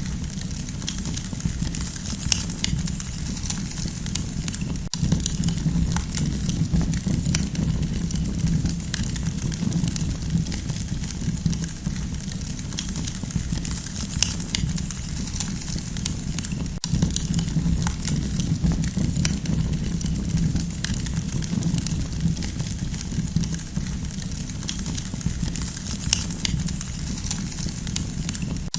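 Campfire crackling: wood burning with frequent sharp pops and snaps over a steady low rumble of the flames.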